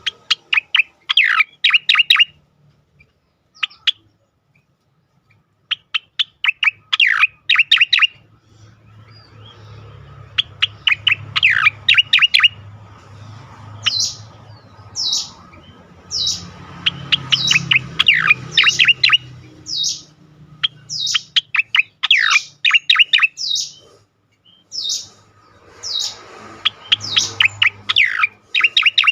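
Striated grassbird (cica koreng) singing in its energetic 'ngejoss' style: repeated bursts of rapid notes sweeping downward, broken by short pauses, with higher, sharper notes joining the phrases about halfway through.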